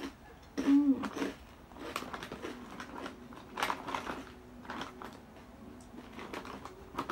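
Chewing crispy macaroni snack: irregular crunching, with a short hum from the eater about a second in. Near the end, the foil snack bag crinkles as a hand reaches into it.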